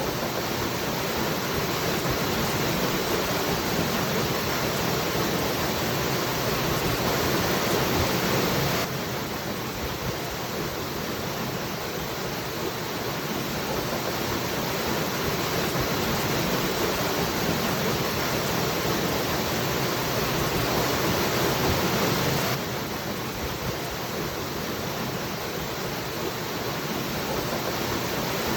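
Waterfall rushing in a steady, dense roar of water noise. The level drops abruptly twice, about nine seconds in and again about twenty-two seconds in, then slowly swells back each time.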